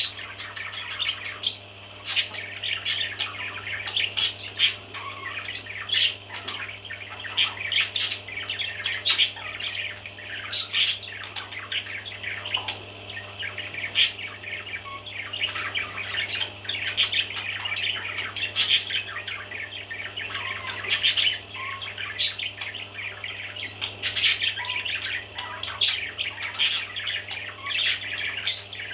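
Baby parrots chirping and calling continuously, many short overlapping chirps with sharper squawks every second or so, over a steady low hum.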